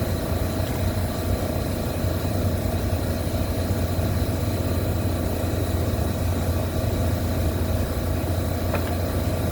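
Steady low hum of running machinery, even throughout, with a steady higher tone over it and a faint click near the end.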